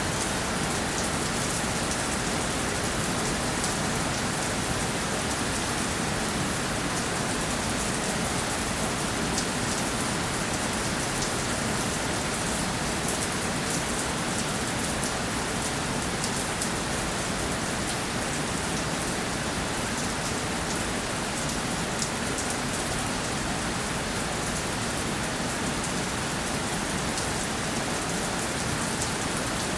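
Steady rainfall: an even hiss of rain with many small drop ticks on a surface.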